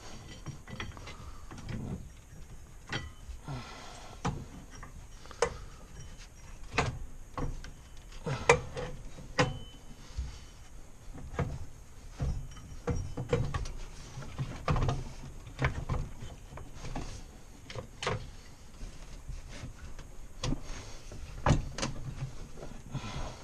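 Irregular knocks, clunks and clicks of hands-on mechanical work as an engine is handled and fitted into a vehicle frame, a few of them louder single clanks.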